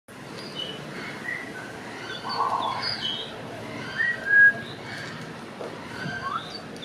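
Grey parrot whistling: a string of short clear whistles at varying pitches, the loudest a brief held whistle about four seconds in, and a quick upward-sliding whistle near the end.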